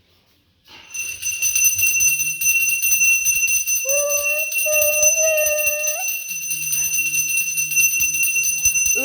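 A puja hand bell rung steadily and rapidly, starting about a second in. A held, pitched note sounds over the ringing twice, from about four to six seconds in and again near the end.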